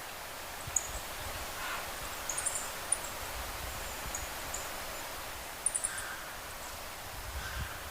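Outdoor ambience: small birds calling with short, very high, thin chirps and quick tick-like groups, scattered every second or so over a steady rustling hiss.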